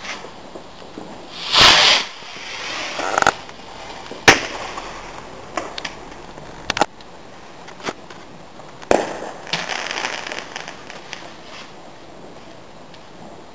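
Garden fireworks going off: a loud hissing burst about two seconds in, then a string of sharp bangs roughly a second apart, followed by a spell of crackling.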